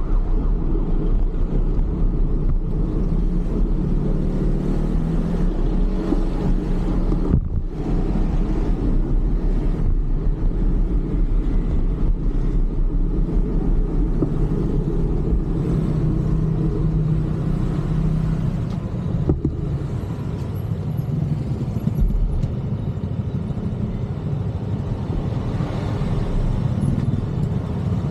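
Road traffic: cars and other motor vehicles running nearby in a steady rumble with engine hum.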